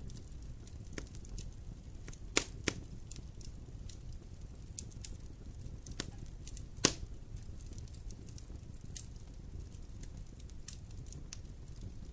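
Wood fire in a fireplace crackling over a low steady rumble, with scattered sharp pops. Two loud pops come a little over two seconds in, and the loudest pop about seven seconds in.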